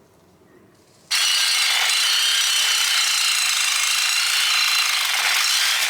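Sawzall reciprocating saw with a metal-cutting blade starting about a second in and cutting through a metal chain-link fence post, running steadily and loud.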